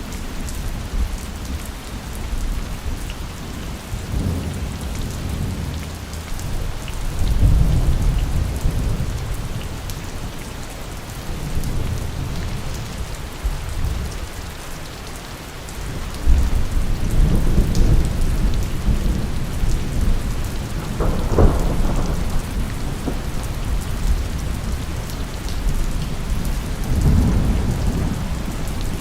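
Heavy steady rain with thunder rumbling again and again through it, the rolls swelling up and dying away, and a sharper crack of thunder about two-thirds of the way in.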